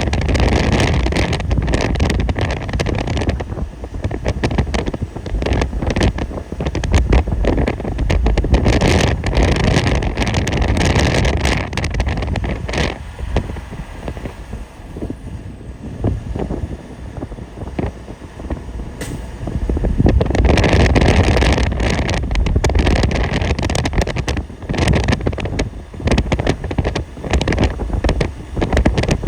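Vehicle driving, with steady road and engine noise under heavy, gusty wind buffeting on the microphone; it eases off for a few seconds about halfway through, then comes back.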